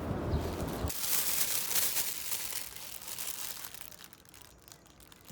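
Crinkling and rustling of packaging being handled, in irregular crackles that fade out over a few seconds. A low rumble cuts off about a second in, just before the crinkling starts.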